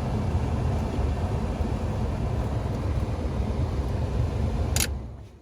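Toyota pickup's heater blower fan running, a steady rush of air, switched by the new heater switch; a sharp click sounds about five seconds in and the fan noise quickly dies away.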